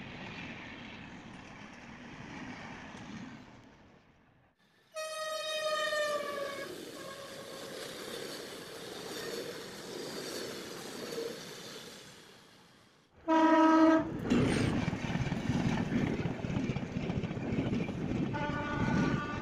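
Indian Railways express trains passing non-stop at speed, heard in three separate clips with a steady rush and rumble of coaches over the rails. A high horn blast sounds about five seconds in. A deeper, loud short horn comes about thirteen seconds in, followed by the loudest passage of coaches, and another horn starts just before the end.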